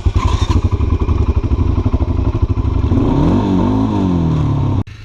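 ATV engine running loud and close, with a fast pulsing beat, revved up and down a few times in the second half before stopping abruptly near the end.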